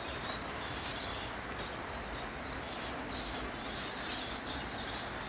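Light rain falling with a steady hiss, with faint parrot chirps and calls every second or so.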